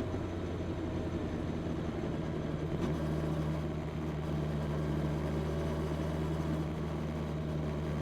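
Honda CB650R's inline-four engine running through its stock exhaust, wavering for the first few seconds and then settling into a steady, even note from about three seconds in.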